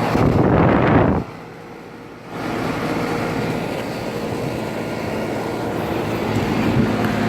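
Outdoor condensing unit of a residential central air conditioner running: a steady fan rush over a low compressor hum. A louder rush fills about the first second, then the sound drops away briefly before the steady running noise returns.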